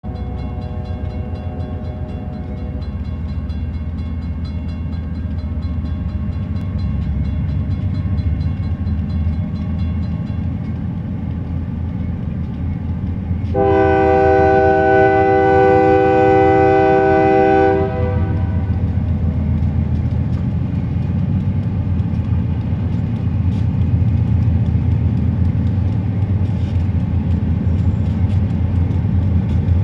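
Three Union Pacific diesel locomotives leading an oil train approach with a steady low engine rumble that slowly grows louder. The locomotive horn is fading out at the start, then sounds one loud blast of about four seconds roughly a third of the way in. A few sharp clicks come near the end.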